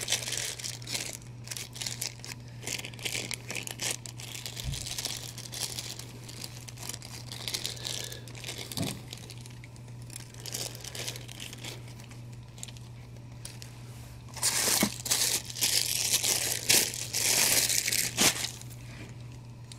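Packaging crinkling and rustling as a statue is unpacked, with a louder stretch of crinkling about three quarters of the way through.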